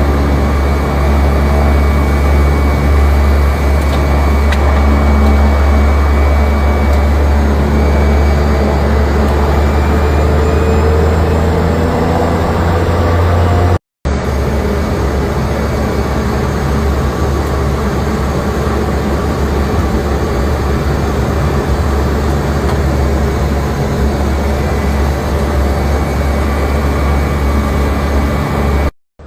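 Small private plane's engines droning steadily, heard inside the cabin in flight: a deep, even hum with a wash of noise over it. It breaks off abruptly for a moment about 14 seconds in, then resumes unchanged.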